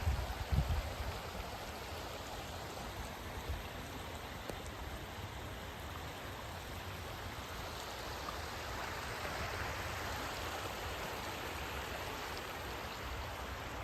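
Steady rush of river water flowing, growing a little brighter about halfway through, with a few low thumps right at the start.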